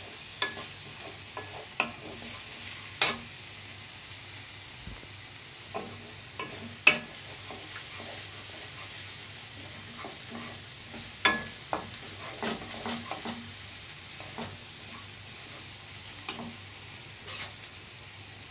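Chopped onion, ginger, garlic and green chillies sizzling steadily in mustard oil in a kadai as they are stirred, with irregular sharp knocks and scrapes of the stirring utensil against the pan, the loudest about 7 and 11 seconds in.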